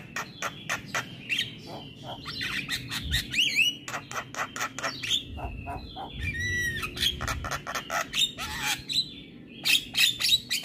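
Javan myna singing a fast, varied song of rapid harsh clicks and squawks mixed with short whistled notes and pitch glides.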